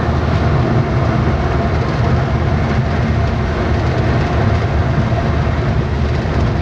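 Steady engine and road rumble inside a moving truck's cab, loud and unbroken, deepest in the low bass.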